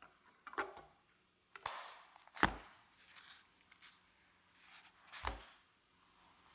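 Kitchen knife cutting food on a cutting board: a few separate cuts, two of them heavier knocks of the blade on the board about two and a half and five seconds in.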